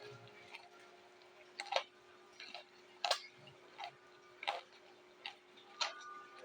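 Chewing raw vegetables close to the microphone: crisp crunching clicks at a steady bite rhythm, a little faster than one a second.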